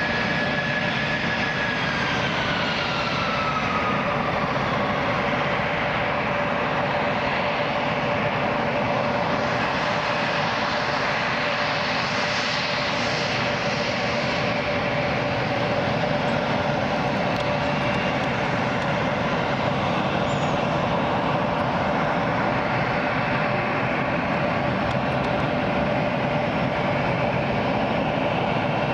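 Aircraft engines running with a steady noisy whine. A higher tone falls in pitch about two to five seconds in, while a lower steady tone holds throughout.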